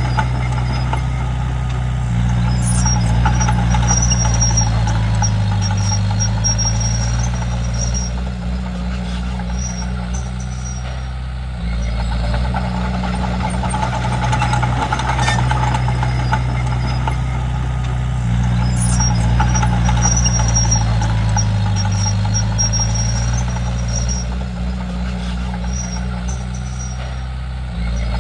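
Komatsu D31P bulldozer's diesel engine running steadily. Its note swells and dips under load, then eases to a quieter stretch, in a cycle that repeats twice, with faint high squeaks during the louder stretches.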